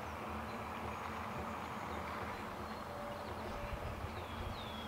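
Distant freight train running steadily, a low even rumble from its diesel locomotives and cars about a mile off. Two short falling chirps come near the end.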